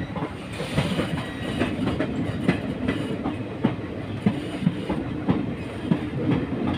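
Passenger train coach running along the track, with a steady rumble and wheels clacking over rail joints roughly every half second to second, heard from aboard the train.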